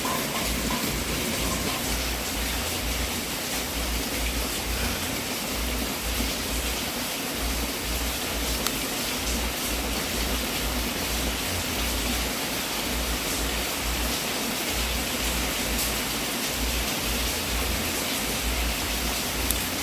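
Wood fire burning in a fireplace: a steady hiss with a few faint crackles.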